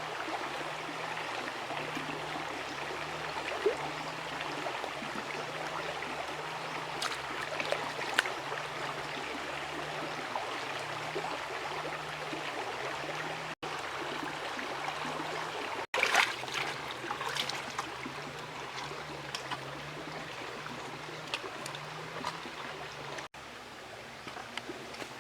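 Stream water running steadily, with occasional sharp clicks and knocks over it, more of them in the second half.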